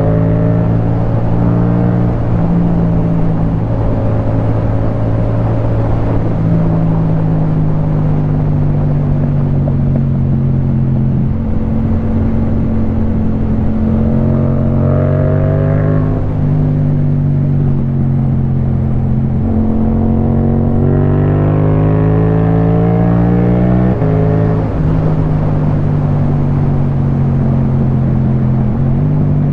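Yamaha MT-07's parallel-twin engine running through an Akrapovic Racing Line titanium exhaust while riding. It holds a steady note for a stretch, then climbs in pitch twice under throttle, about halfway through and again past two-thirds, each climb ending in a sudden drop.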